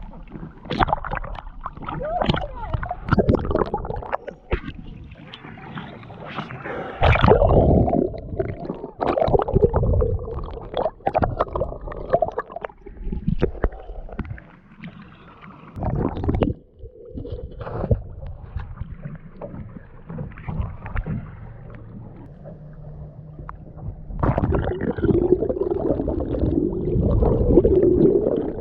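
Water sloshing and splashing around a small open boat, in irregular bursts, with a louder, denser stretch near the end.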